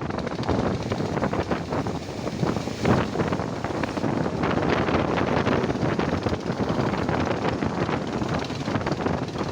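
Wind buffeting the microphone over the steady wash of heavy surf.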